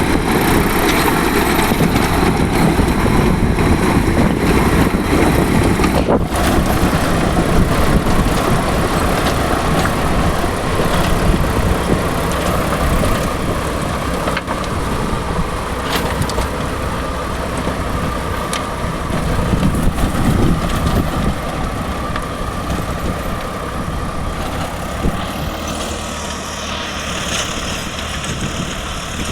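Swaraj 742 XT tractor's diesel engine running steadily with a rotavator attached, a continuous loud mechanical drone that grows a little quieter over the last few seconds.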